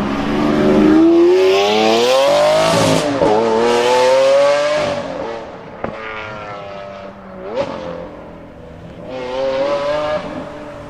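Supercar engine accelerating hard: its pitch climbs for about three seconds, breaks briefly at a gear change, climbs again, then falls away after about five seconds. A sharp crack comes near six seconds, a short rev near seven and a half seconds, and another pull from about nine seconds.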